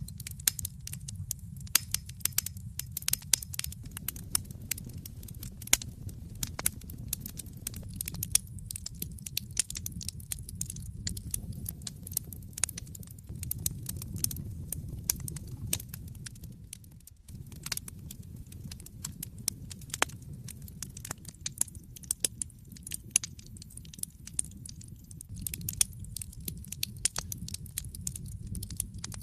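Wood fire burning in a fireplace: irregular crackling with sharp pops and snaps over a steady low rumble of the flames, which dips briefly about seventeen seconds in.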